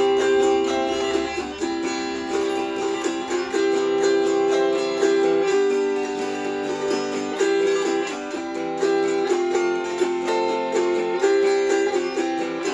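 Autoharp strummed alone in an instrumental break: ringing chords with the tune picked out on top, the notes shifting every second or so.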